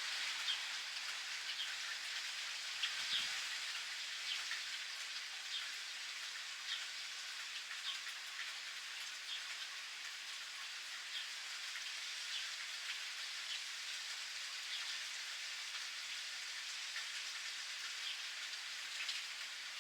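Steady rain falling, with many scattered close drops ticking and pattering among the even hiss.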